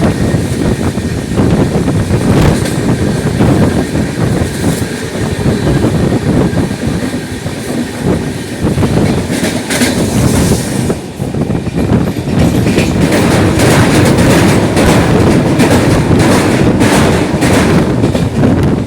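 Shantiniketan Superfast Express train running at speed, its wheels clattering over the rail joints, with a run of sharp clacks in the second half.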